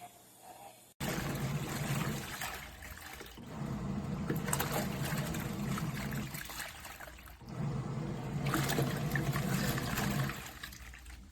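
Water sloshing and trickling inside a KRIB BLING portable washing machine, starting suddenly about a second in. A low hum comes in twice, for about three seconds each time.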